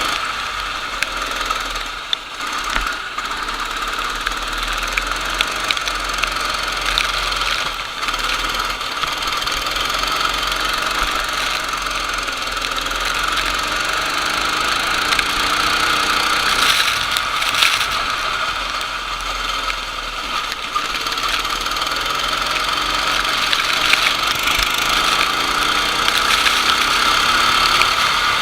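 Kart engine running hard, its pitch rising and falling with the throttle through the lap.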